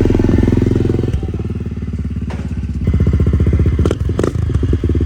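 Dirt bike engine running at low revs with steady, rapid firing pulses, getting louder about three seconds in.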